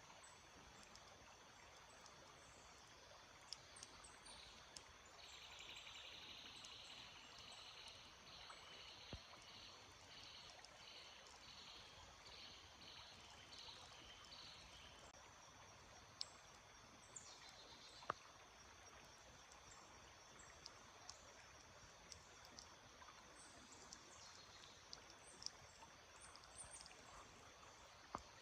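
Faint stream water trickling steadily. A bird sings a run of evenly repeated high notes, about one a second, for some ten seconds starting about five seconds in. Scattered short sharp ticks sound throughout.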